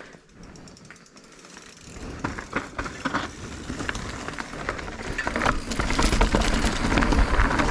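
Mountain bike riding down a rocky trail: tyres rolling and rattling over rock, with clicks and clatter from the bike. The noise starts about two seconds in, and a low rumble grows louder as speed builds.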